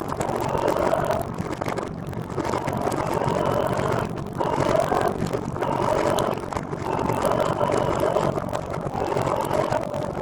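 Steady road noise of travel: a continuous rushing hum with a wavering mid-pitched drone that dips briefly every second or two.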